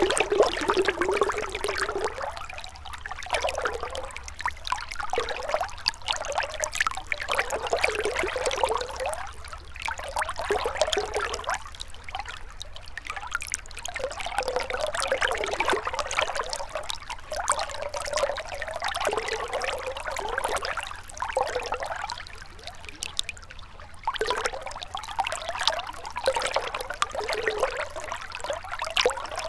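Gentle river water trickling and gurgling, its flow swelling and easing every second or two.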